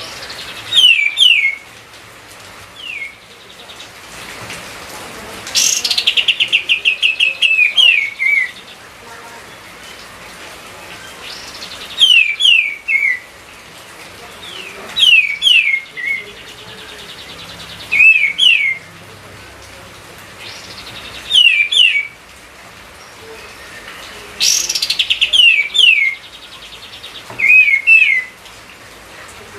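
Kapas tembak (an Indonesian songbird) singing vigorously. It repeats short phrases of two or three quick downward-sliding whistles every few seconds, and three times breaks into a fast, rapidly pulsed chattering trill.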